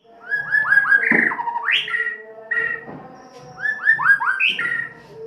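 White-rumped shama singing a rough-toned lure song (pancingan). Each phrase is four quick clipped whistled notes followed by louder sweeping whistles, and it is sung twice.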